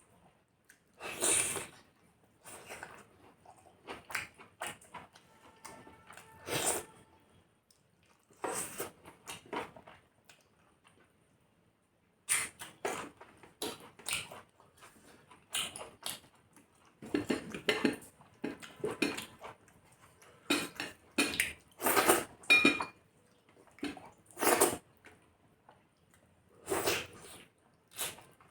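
Eating rice and chicken curry from a plate: irregular clinks and scrapes of the dishes with eating noises, and a silent pause of a couple of seconds near the middle.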